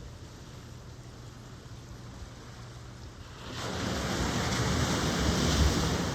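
Ocean surf: a steady low wash of water, then a wave breaking about halfway through, swelling into a loud rush and beginning to ease near the end.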